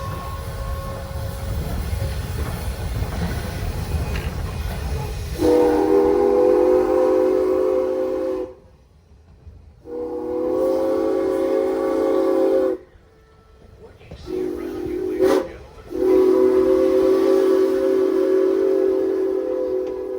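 Norfolk & Western #475 steam locomotive's whistle blowing the grade-crossing signal, long, long, short, long, after about five seconds of the train rumbling along.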